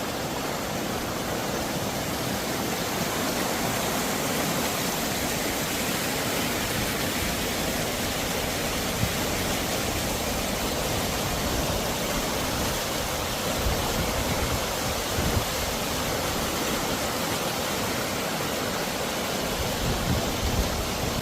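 Steady rush of fast-flowing water in a rain-swollen river.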